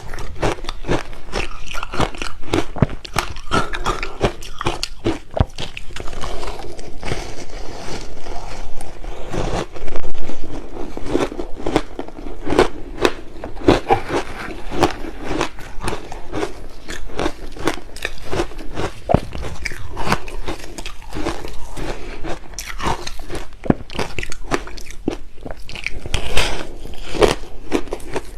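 Close-miked crunching and chewing of shaved ice flavoured with passion fruit: a dense, irregular run of crisp crunches, with one louder crunch about ten seconds in.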